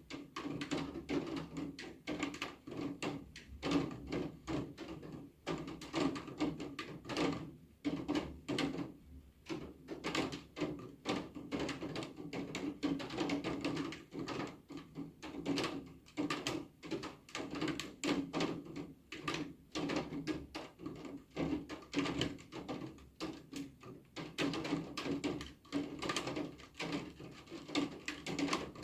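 Rain with heavy drops tapping irregularly and densely on a hard surface.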